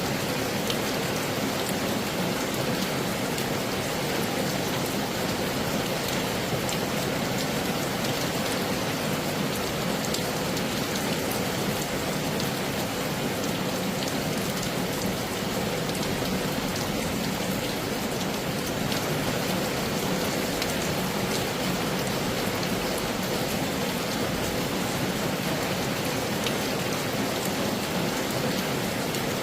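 Heavy rain falling steadily, a dense even hiss with many sharp drop ticks scattered through it.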